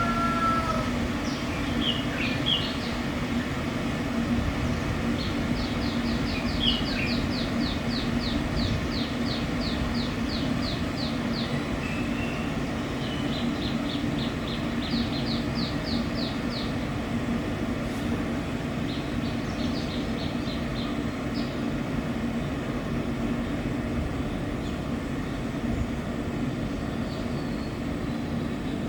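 Small songbirds calling, several times in rapid runs of evenly spaced high notes, about three a second, with scattered single chirps. Under them runs a steady low rumble.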